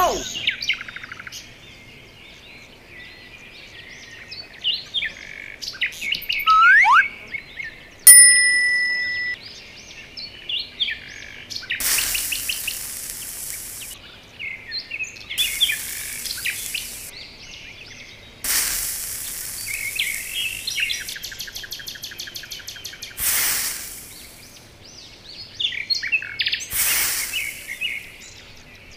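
Small birds chirping and calling throughout, with five one-to-two-second bursts of gritty scraping hiss from a small trowel digging into sand in the second half. A loud, clean beep-like tone starts abruptly about eight seconds in and holds for just over a second.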